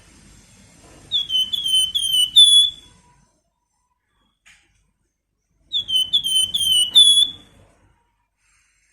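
A flamboyan songbird whistling two phrases of four clear, downward-slurred notes each, about three seconds apart: the 'nyiul' whistling song.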